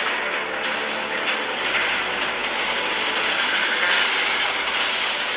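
Vehicle driving along a road: steady rattling road noise that grows harsher about four seconds in.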